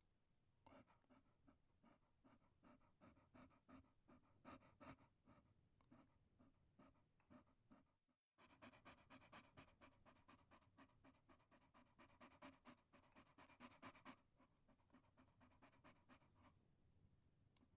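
Chihuahua panting, faint and fast at about four or five breaths a second, breaking off for a moment about eight seconds in.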